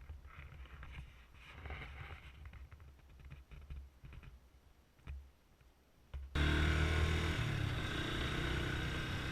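Faint low rumble with a few soft handling noises, then about six seconds in a sudden cut to a motorcycle engine running steadily under way, with loud wind noise.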